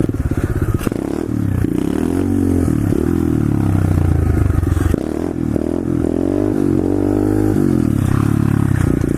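125cc SSR pit bike engine running under way, its revs rising and falling as the throttle is worked, with a short drop about five seconds in. It runs without the high-rev vibration noise, its loose top motor mount now tightened.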